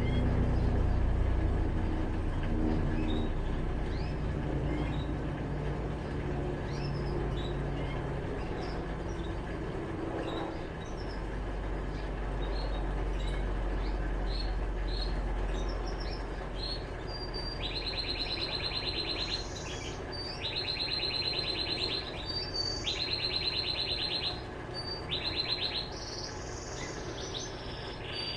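Electrolux LTE12 washing machine motor running with a low hum during its rinse cycle, changing about a third of the way through. Birds chirp over it, and from about two-thirds of the way in a bird sings repeated fast, high trills, each about a second long, which become the loudest sound.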